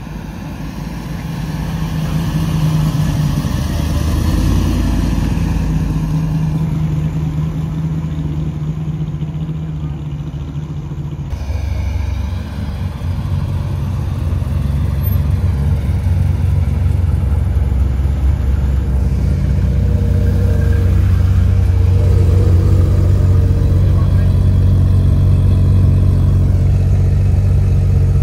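Car engine running at a steady low idle, a deep rumble that grows louder over the first few seconds. It changes about ten seconds in and sounds fuller and a little louder through the second half.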